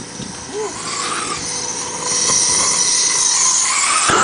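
Flamethrower flame hissing steadily, growing louder about two seconds in and then running on at a steady level.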